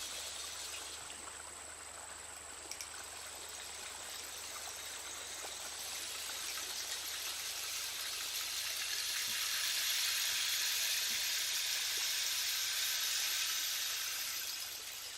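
Soft, even rushing hiss like falling rain or running water. It swells to its loudest about two thirds of the way through and eases off near the end.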